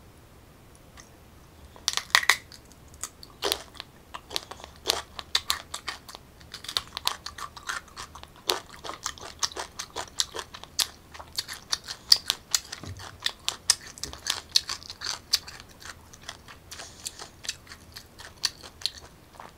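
Crisp crunching and chewing of a whole unripe green mango dipped in shrimp paste. After a quiet start, a loud crunchy bite comes about two seconds in, followed by a steady run of crunchy chewing.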